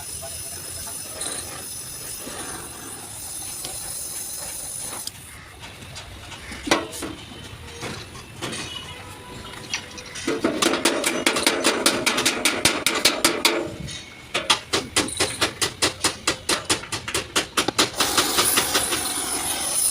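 Hammer blows on truck-cab sheet metal during dent repair: a fast, even run of sharp strikes, about three to four a second, starting about halfway through. A steady hiss is heard before the strikes and again near the end.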